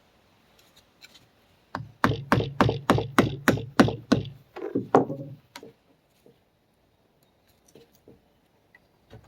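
Hammer blows bending and driving out an old leaking oil seal from a Ford 1910 tractor's front axle housing: a quick run of about ten sharp metal strikes, roughly three a second, then a few slower taps.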